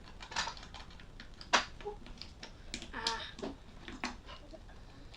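Plastic Lego pieces clicking and knocking as they are handled and snapped together, in irregular sharp clicks, the loudest about a second and a half in.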